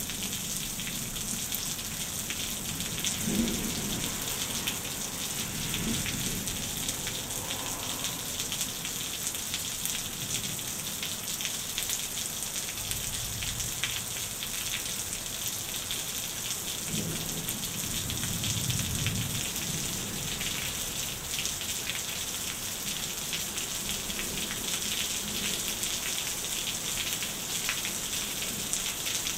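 Steady heavy rain falling on leaves and wet ground, a dense even hiss, with several low rolls of thunder swelling and fading under it.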